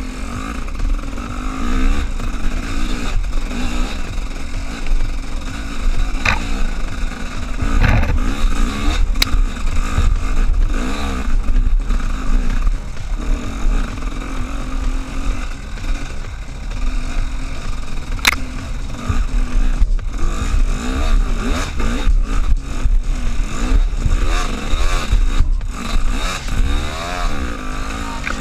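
A vehicle engine revving up and down over and over under load, with scraping and clattering and a few sharp knocks, typical of an off-road run over loose stones.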